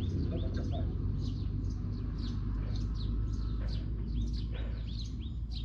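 Small birds chirping over and over, each call a short falling chirp, several a second, over a steady low hum.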